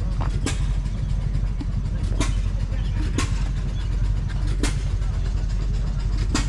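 An engine idling with a steady low rumble, with sharp clicks every second or two.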